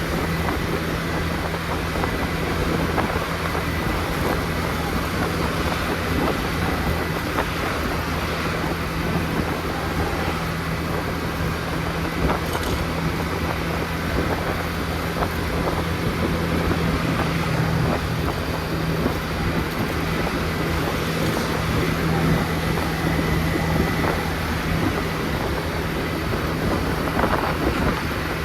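Motor scooter running at a steady cruising speed, its engine a constant low hum under wind on the microphone and road noise.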